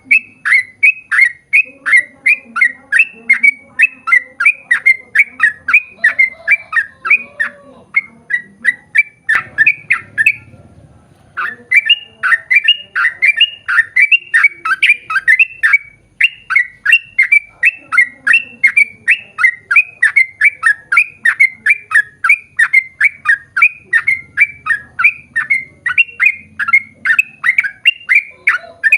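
Yellow-vented bulbul (trucukan) singing a long rapid series of loud, repeated chirping notes, about two to three a second, broken by a short pause about ten seconds in.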